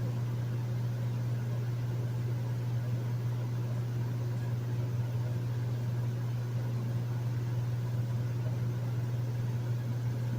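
Hotel room air conditioner running steadily: a constant low hum under an even rush of air.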